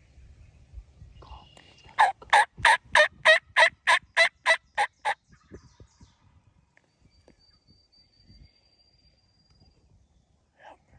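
A run of about eleven loud, evenly spaced turkey yelps, about three and a half a second, lasting some three seconds.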